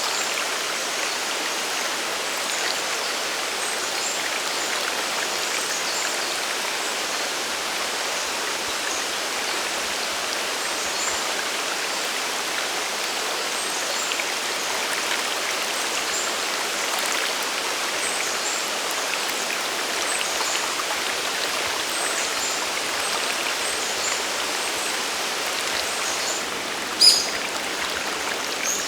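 Mountain stream and waterfall water rushing steadily, with a brief sharp high sound near the end.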